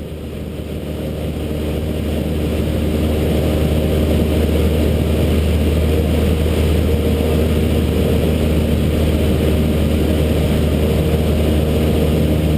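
Cessna 152's four-cylinder Lycoming engine and propeller running steadily, growing louder over the first few seconds and then holding an even drone.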